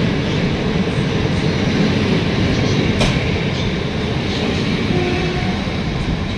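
Historic passenger coaches of a departing train rolling past, with a steady rumble of wheels on rails. A single sharp click comes about halfway through.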